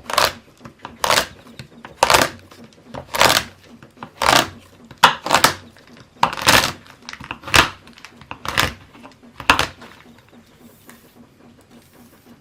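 A knife chopping a bar of dark chocolate on a cutting board: about eleven crunching cuts, roughly one a second, stopping about ten seconds in.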